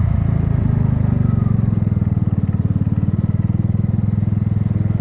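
Kymco People 250 scooter's single-cylinder engine and exhaust running steadily, with an even low firing pulse. The exhaust leaks have been sealed with JB Weld high-heat epoxy, and it sounds like a normal scooter rather than a loud leaking exhaust.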